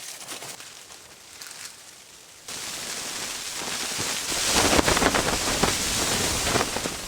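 Blizzard wind with driven snow, a dense hiss that cuts in abruptly a couple of seconds in and swells in gusts. Before it there are faint scattered crunches.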